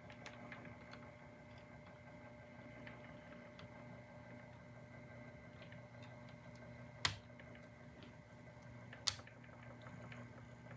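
Model trains running on a layout: a faint steady motor hum with light ticking of wheels over the rail joints, and two sharper clicks about seven and nine seconds in.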